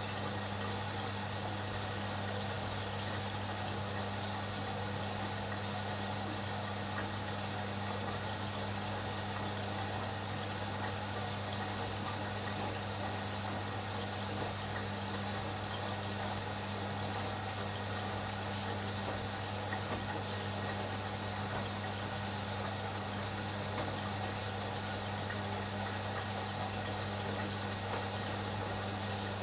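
ATLANT 70С1010 washing machine running, a steady low hum with no change in pace.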